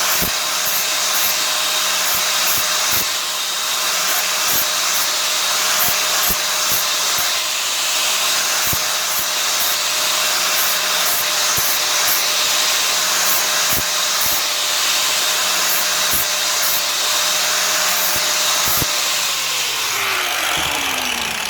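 Angle grinder running steadily against car body sheet metal, cleaning up the repair area with a hissing scrape over its steady motor whine. Near the end it is released, and its whine falls as the disc spins down.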